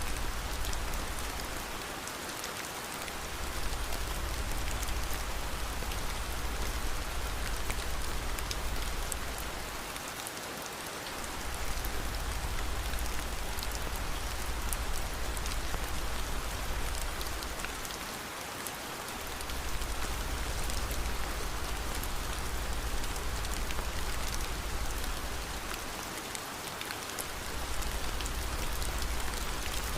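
Steady rain with fine drop patter, over a deep low rumble that fades out briefly about every eight seconds.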